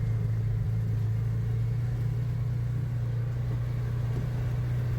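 ATV engine running steadily: a constant low drone that neither rises nor falls.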